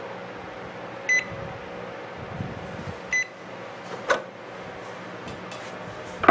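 Two short electronic keypad beeps from a Panasonic inverter microwave, about two seconds apart, then a click about four seconds in and a louder knock near the end. The oven does not start heating: its inverter circuit board is badly damaged.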